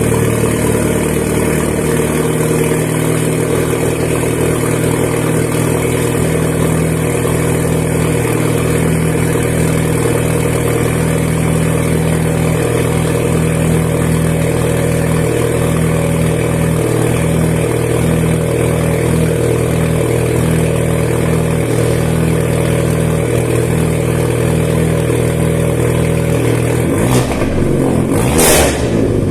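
Turbocharged 2.0 TSI four-cylinder of a stage-2 VW Jetta idling loudly just after a cold start, through a 3" downpipe and a 2.5" straight-piped exhaust with no mufflers. Near the end the engine revs up once and drops back to idle.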